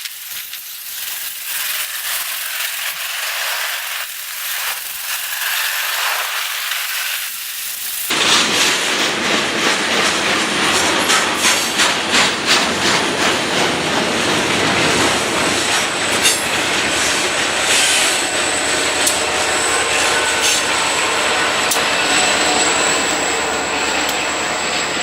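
Railroad cars rolling past with a steady rush of wheel and rail noise. About eight seconds in it turns louder and fuller, with a regular clickety-clack of wheels over rail joints. A thin, steady high-pitched squeal joins in the second half.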